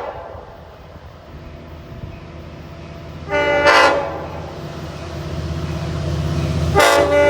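Long Island Rail Road diesel train approaching with its horn sounding: a short blast about three seconds in, then a longer blast starting near the end, over the engine's rumble growing louder as it nears.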